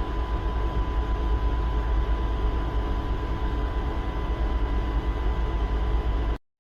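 A 762 mm narrow-gauge electric train with nose-suspended traction motors running steadily: a continuous low rumble with a thin steady whine above it. The sound cuts off abruptly near the end.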